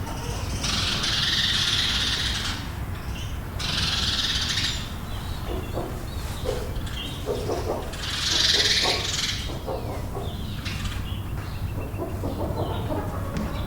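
Chickens inside a barn: scattered low clucks between three high, rough outbursts of a second or two each, over a steady low hum.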